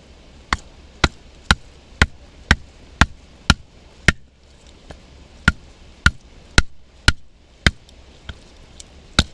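Batoning firewood: a wooden baton striking the spine of a Mora knife driven into a log. Sharp knocks come about two a second, eight in a row, then after a pause of about a second five more, with a few lighter taps and one last hard knock near the end.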